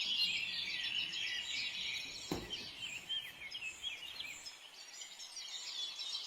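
Many small birds chirping together in overlapping short, high calls, with one faint click about two and a half seconds in.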